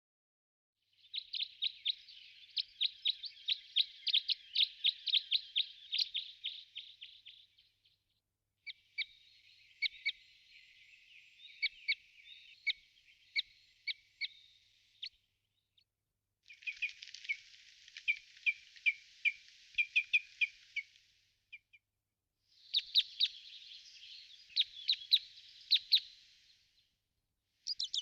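Bird song: four long bouts of rapid, high chirps, each lasting four to six seconds, separated by short silent gaps, with a fifth bout starting near the end.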